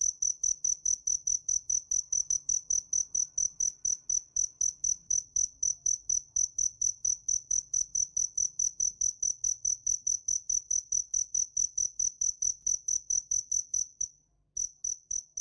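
Cricket chirping in a steady, even rhythm of about five high-pitched chirps a second, breaking off briefly near the end before starting again.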